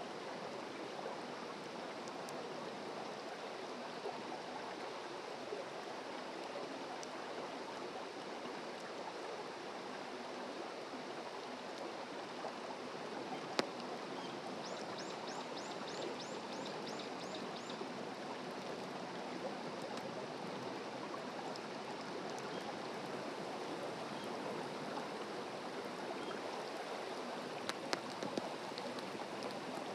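Wood fire burning on a fire stand: a steady hiss with occasional sharp crackling pops, one loud pop about halfway and a few more near the end. A short high trill of about ten quick notes comes in about fifteen seconds in.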